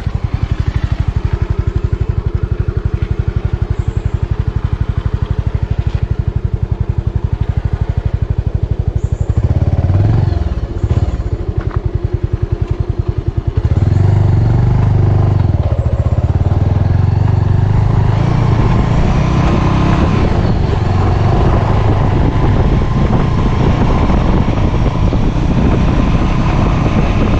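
Motorcycle engine running steadily while riding, its note shifting about ten to thirteen seconds in; from about halfway the rush of wind on the microphone grows louder over the engine.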